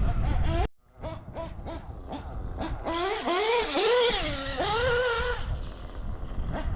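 Ielasi nitro RC engine running at a high pitch, its revs rising and falling over and over as the throttle is worked. There is a brief sudden break in the sound just before a second in.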